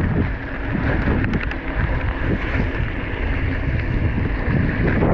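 Wind buffeting an action camera's microphone while a mountain bike is ridden, a dense rushing noise.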